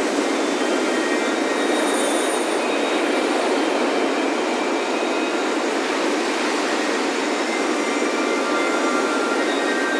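Ocean surf breaking on a beach as a steady, even roar. Faint wind chime tones ring here and there over it.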